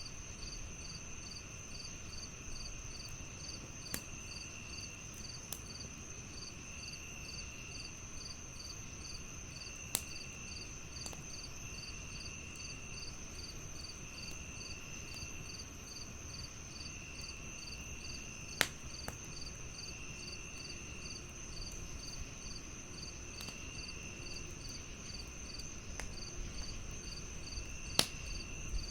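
Crickets chirping in a steady rapid pulse over a constant high trill, with a lower trill coming and going in spells of about a second. Underneath, a wood fire hisses low and gives four sharp pops spread through.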